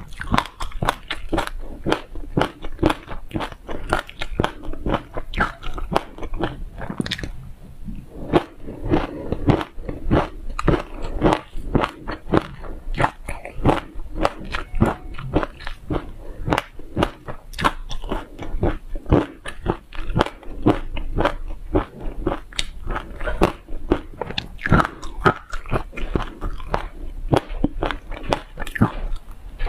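Close-miked chewing and crunching of toasted sesame seeds with passion fruit pulp: a dense, steady run of crisp crunches, several a second.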